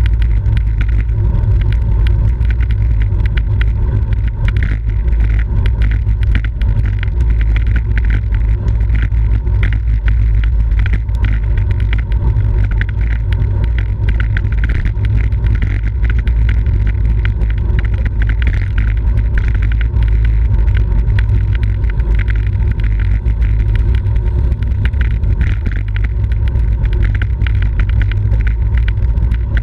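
Wind rushing over the microphone of a camera on a racing bicycle at speed: a loud, steady low rumble, with tyre and road noise and frequent small clicks from the bike.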